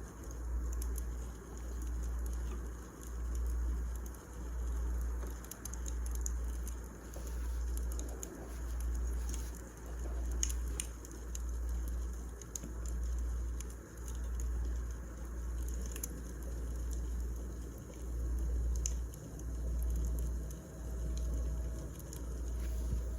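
Wood fire crackling: scattered sharp pops and crackles over a low rumble that swells and fades about once a second.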